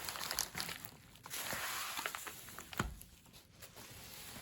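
Packaging being handled: a stretch of rustling with small clicks, and one soft knock about three seconds in.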